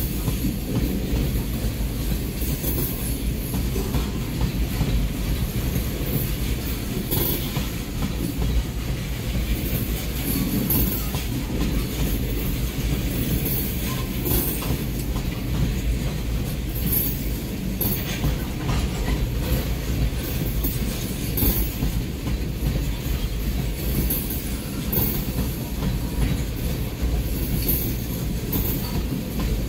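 Norfolk Southern coal train's hopper cars rolling past at speed: a steady low rumble of steel wheels on rail, with irregular sharp clacks and squeaks.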